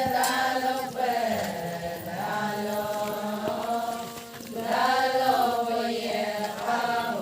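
Voices singing an Adi ponung chant in long, held melodic phrases over a steady low tone. One phrase fades about four seconds in and a new one starts.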